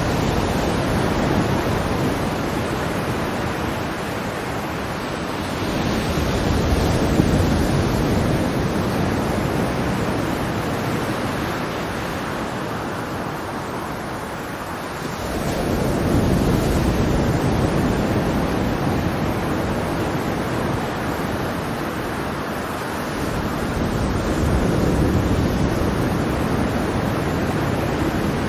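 Ocean waves breaking and washing on the shore, a steady rushing surf that swells and eases in slow surges every several seconds.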